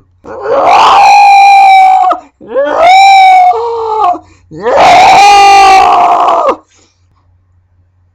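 A man's voice making three loud, high-pitched, screechy scream-like noises, each held about two seconds on a steady pitch. The second one drops to a lower pitch near its end.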